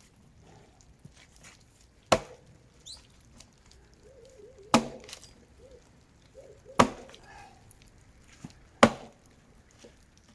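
Axe chopping into the trunk of a dead tree, whose grain looks like ash. Four heavy strikes, about two seconds apart.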